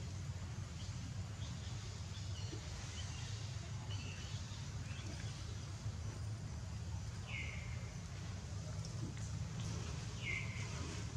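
Outdoor ambience: a steady low rumble, with a few short, high bird chirps that drop in pitch, about three spaced a few seconds apart in the second half.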